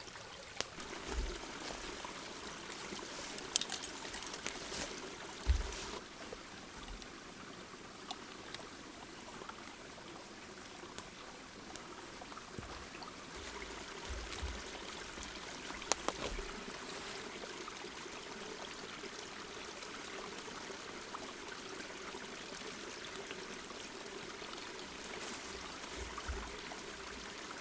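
Creek running steadily, with a few scattered clicks and knocks over it, the sharpest about five and sixteen seconds in.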